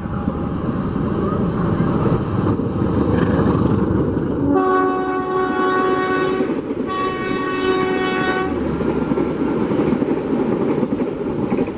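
Passenger train running through a station without stopping, its wheels and engine rumbling throughout. About halfway through, the locomotive's multi-tone horn sounds two long blasts of about two seconds each, with a short gap between them.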